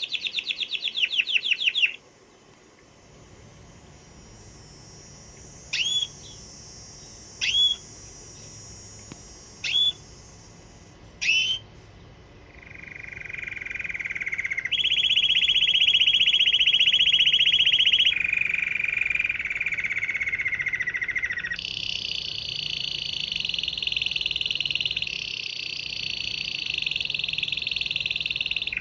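Canary singing: a rapid trill, then four separate short whistled notes, each hooking upward. After that comes a long run of fast trills that switches to a new pitch every few seconds.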